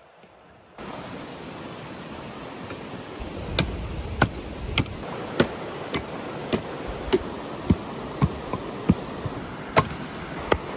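Regular chopping strokes, a sharp knock about every half second or so, starting a few seconds in, over a steady rushing background noise that begins abruptly near the start.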